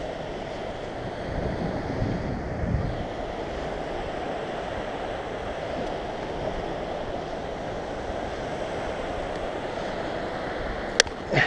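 Ocean surf breaking steadily on the beach, with wind rushing on the microphone. A single sharp click sounds near the end.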